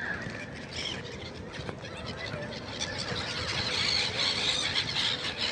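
A flock of birds calling together, many short high squealing calls overlapping and growing louder and denser about halfway through.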